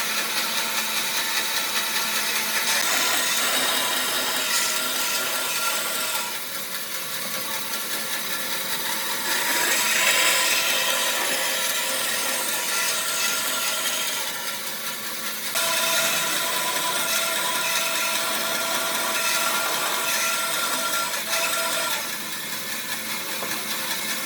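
Electric power tool running continuously against wood, a steady motor whine over the noise of the cutting or sanding, with the sound shifting abruptly several times.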